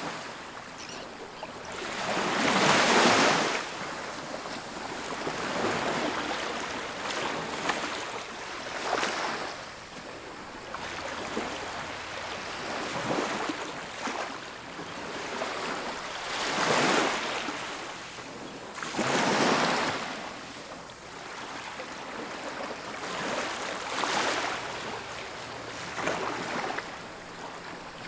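Ocean waves breaking and washing up a beach, the surf swelling and falling away every few seconds over a steady hiss; the biggest break comes about three seconds in.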